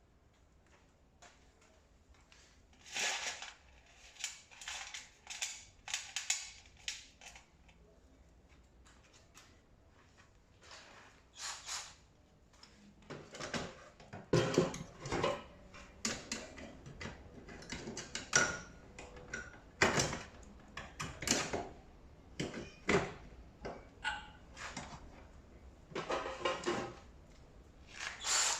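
Irregular knocks, clicks and scrapes of tumble dryer parts being handled and fitted during assembly, sparse at first and busier from about halfway on.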